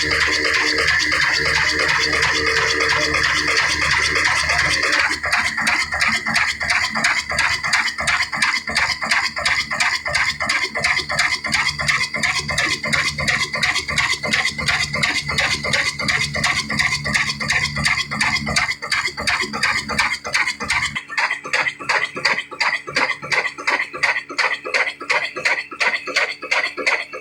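18 HP 'kala desi' diesel engine running under load, driving a stone flour mill (atta chakki), with a steady rhythmic clatter. The deep rumble underneath drops away about three-quarters of the way through while the clatter goes on.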